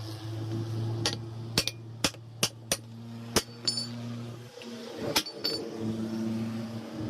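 Sharp metallic knocks and clinks from hand tools striking a tyre rim, about nine irregular strikes, some of them ringing.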